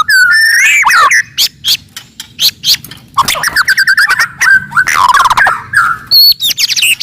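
White-rumped shama (murai batu) singing loudly: a fast, varied run of sweeping whistles broken by sharp clicking notes.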